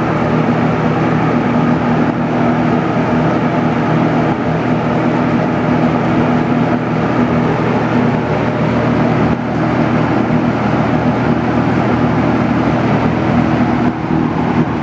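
JCPenney 9700 box fan, a Lakewood P223 type with a McMillan motor, running steadily on its high speed: an even rush of air from the blades over a steady low motor hum.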